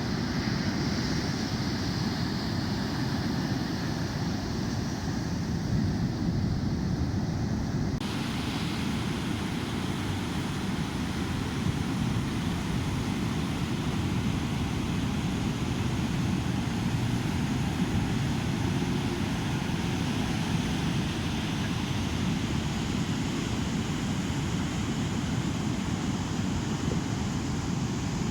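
Steady low rumble of breaking surf and wind on the microphone at a river mouth, with a possible engine drone mixed in; the sound's upper part changes abruptly about eight seconds in.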